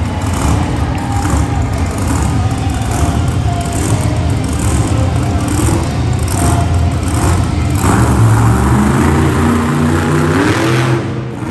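Monster truck engine revving hard and continuously under load, its pitch rising and falling and climbing near the end.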